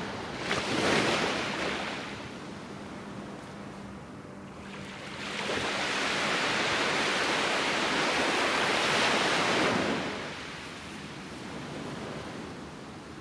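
Ocean surf breaking on the shore: a short surge about a second in, then a longer wash of a wave from about five to ten seconds in that fades away.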